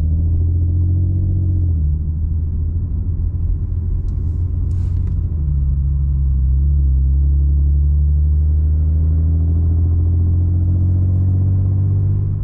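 Infiniti Q50S exhaust heard from inside the cabin with the windows up: a steady, low drone at low RPM whose pitch dips briefly about two seconds in and again about five to six seconds in, then holds. The catback runs two Vibrant Super Quiet resonators in place of a Borla muffler, making it nearly straight-piped, and at low RPM it is really quiet, with no rasp.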